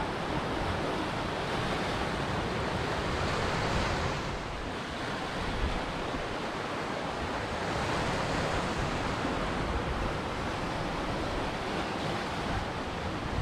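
Ocean waves breaking and washing ashore in a steady rush of surf, easing a little about four seconds in and building again around eight seconds.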